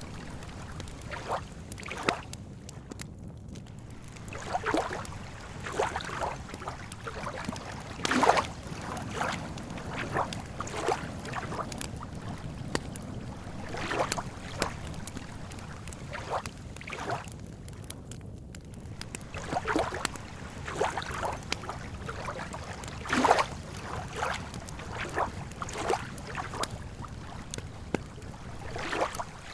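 Lake water lapping at the shore in small irregular splashes and sloshes, about one a second, some louder than others, over a steady low rumbling hiss.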